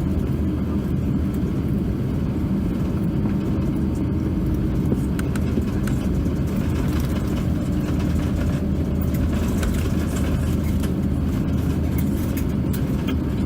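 Airliner cabin noise from an Airbus A350-900 on the ground before takeoff: a steady low rumble and hum from its Rolls-Royce Trent XWB engines at low power, with a few faint rattles and ticks.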